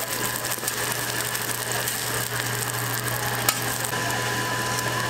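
Seafood and green onion pancakes sizzling in oil on a flat griddle, a steady hiss over a low hum. A single sharp click about three and a half seconds in.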